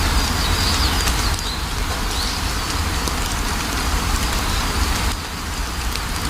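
Steady rain with scattered drops pattering, over a deep low rumble. A bird chirps a few short times in the first couple of seconds.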